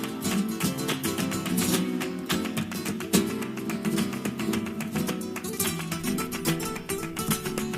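Background music: fast, strummed and plucked flamenco-style acoustic guitar.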